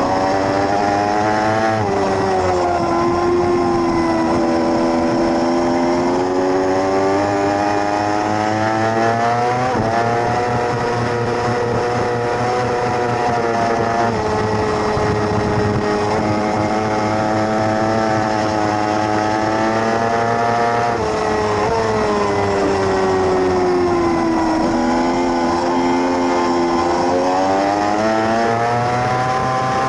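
600cc racing motorcycle engine at full race pace, its pitch climbing under acceleration and falling off, with several abrupt steps in pitch at gear changes.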